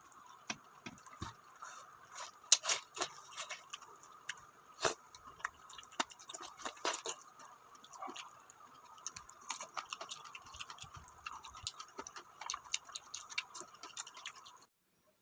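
Mukbang eating sounds at a shabu-shabu hotpot: irregular light clicks and taps of utensils and dishes, with a faint steady hiss underneath, cutting off suddenly near the end.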